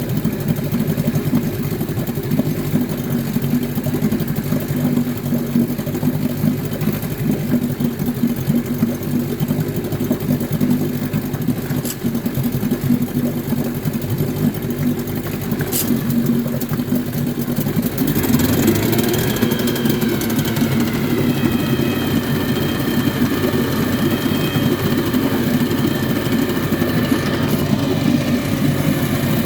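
1953 Scott-Atwater Gold Pennant 7-1/2 hp two-stroke outboard running steadily, with two brief clicks partway through. About two-thirds of the way in the engine note picks up and a higher whine joins it, then settles at the new speed.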